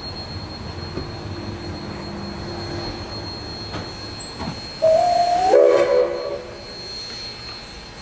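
Narrow-gauge steam locomotive whistle blowing about five seconds in: a single steady note for under a second, then a chord of several notes for about a second. Before it, the low rumble of the train running.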